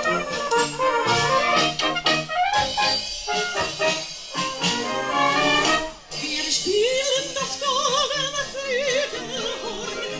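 German brass band with flugelhorns playing a lively tune. About six seconds in the band drops out briefly, and a female singer comes in with a held, wavering note.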